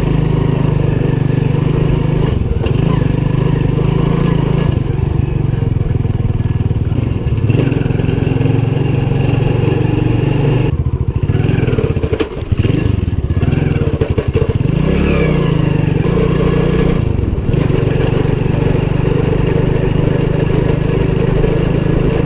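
Motorbike engine running steadily, with its pitch rising and falling briefly about two-thirds of the way through as the throttle changes.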